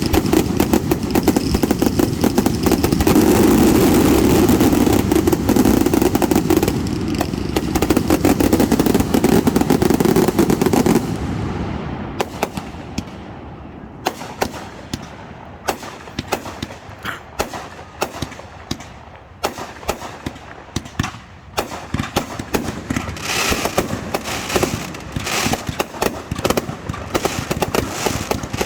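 Fireworks display: a dense barrage of continuous bursts and crackling for about the first eleven seconds, then thinning out to scattered separate bangs and crackles that thicken again near the end.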